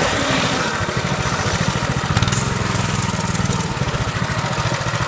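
Mini bike's 196cc (6.5 HP) single-cylinder engine running under way with a steady firing pulse. It gets louder for about a second and a half, starting about two seconds in, then settles back.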